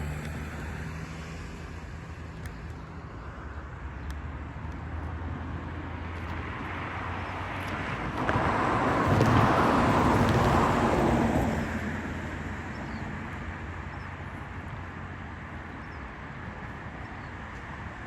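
Road traffic: a steady low engine hum, then a vehicle passes close by, swelling to its loudest between about eight and eleven seconds in before fading.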